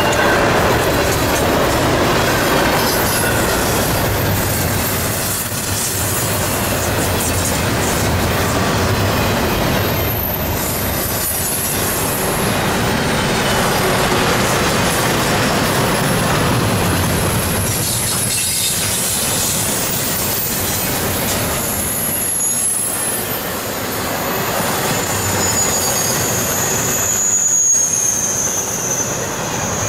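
Double-stack intermodal freight train rolling past: a steady rumble of steel wheels on the rails, with thin high-pitched wheel squeal that slides up and down in pitch, most noticeable in the second half.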